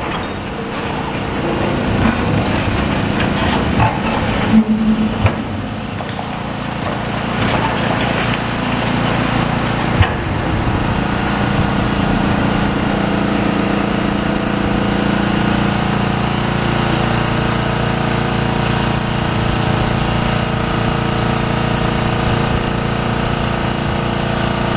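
Demolition excavator's diesel engine running steadily, with a few sharp knocks in the first ten seconds or so; the hum gets a little louder and steadier after that.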